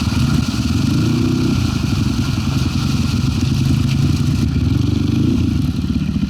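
Zuum NC300 enduro motorcycle's single-cylinder engine running under way, its pitch rising and falling with the throttle as it is ridden over rough ground.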